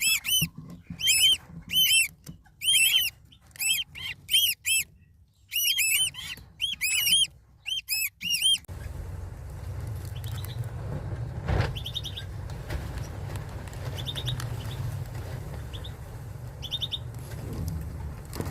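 Eastern rosella calling: loud, sharp chirps in quick runs and pairs for about eight and a half seconds. Then a steady low rumble with a few faint chirps and a single click.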